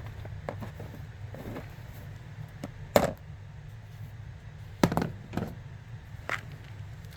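Packed cornstarch being crunched, with irregular crisp crunches. The loudest come about three seconds in and again near five seconds, with fainter crackles between, over a steady low hum.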